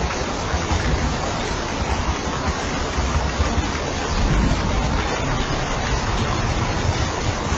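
Steady rain falling, a dense even hiss with a low rumble underneath that swells briefly about four seconds in.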